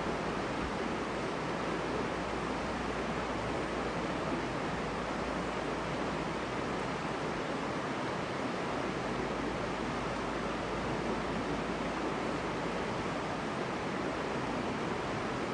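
Creek rapids rushing: a steady, even wash of fast-flowing water, loud enough that a voice 20 feet away can't be heard over it.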